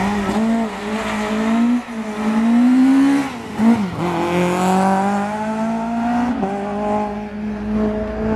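Rally car engine held at high revs, its pitch climbing and then dropping back sharply three times.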